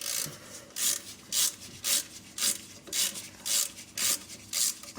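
Rhythmic scrubbing strokes, about two a second, as caked mud and grime are worked off a part of the front steering-knuckle assembly.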